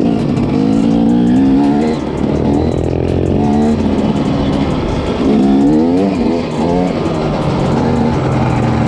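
Off-road vehicle engine under way, the revs rising and falling repeatedly as the throttle is worked over rough ground.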